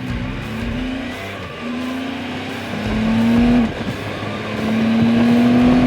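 Can-Am Spyder F3's Rotax 1330 inline three-cylinder engine accelerating hard from a standstill. Its pitch climbs in each gear and drops at each upshift, three times.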